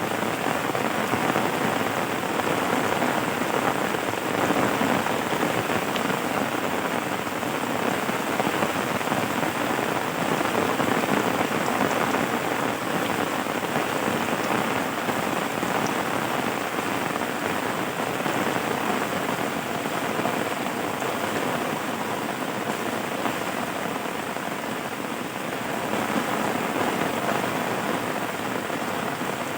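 Steady rain falling, a continuous even hiss of many drops with no breaks or thunder.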